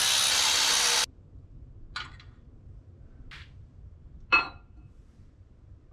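A loud, even hiss that cuts off abruptly about a second in, followed by three light metallic clinks of tools or engine parts being handled. The third clink is the loudest and rings briefly.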